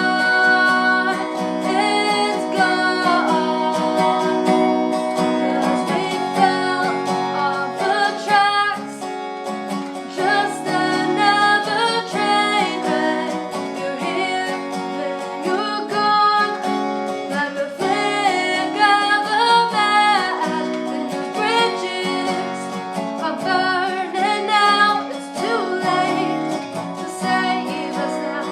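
A song: a voice singing over acoustic guitar accompaniment.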